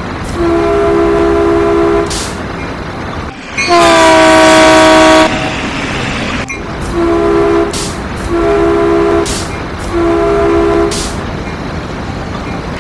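Caltrain train's horn sounding five chorded blasts, two long then three shorter; the second is the loudest, its pitch sliding down as it starts.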